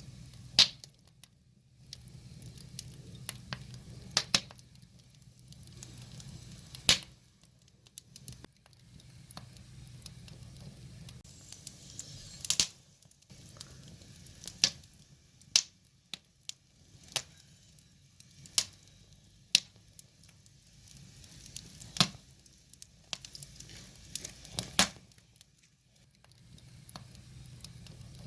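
Firewood fire crackling: sharp, irregular pops and snaps every second or two over a soft hiss of burning wood.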